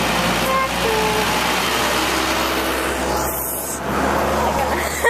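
Tractor engine running steadily amid a loud, even rushing noise, with a short knock near the end.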